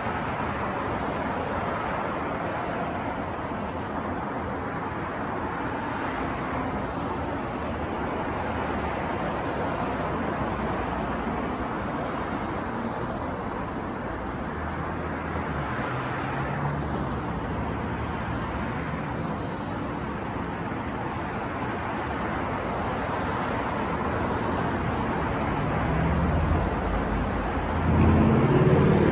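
City street traffic noise: a steady wash of passing cars. Near the end a heavier vehicle's engine rumbles close by and grows louder.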